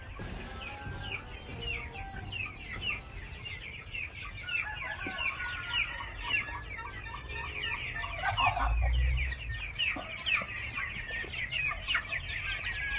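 A flock of chickens calling and clucking, many short, high, falling calls overlapping one another, with a low rumble about two-thirds of the way through.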